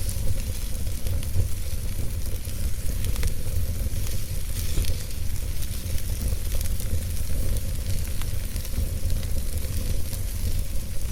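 Wood fire in a fireplace crackling: scattered sharp pops and snaps over a steady low rumble and hiss.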